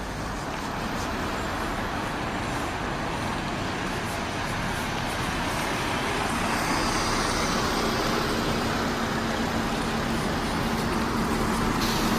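Vehicle noise with a steady wash of traffic sound; a steady engine hum comes in about halfway and grows slightly louder toward the end.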